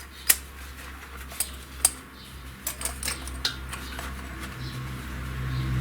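Sharp metallic clicks and clinks of hand tools on an engine's cylinder head, as a collet puller is worked onto a valve stem seal. A steady low hum runs underneath and grows louder near the end.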